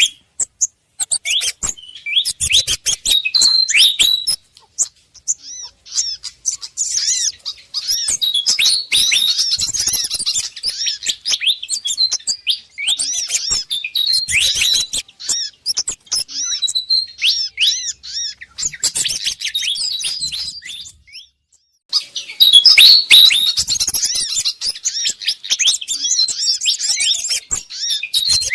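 Bird-lure recording of agitated fantail (sikatan kipas) calls mixed with sogon and kemade calls: a dense run of rapid, high chirps and twitters with a brief break about three quarters of the way through.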